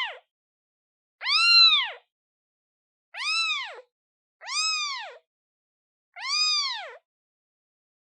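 Newborn kitten, one day old, meowing to call its mother: four high-pitched meows, each rising then falling in pitch and lasting under a second, about one every one and a half seconds with silence between.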